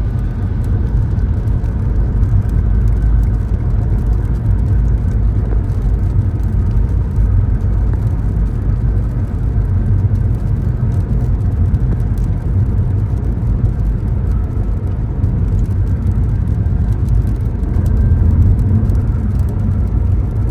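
Car driving along at steady speed, a continuous low rumble of engine and road noise.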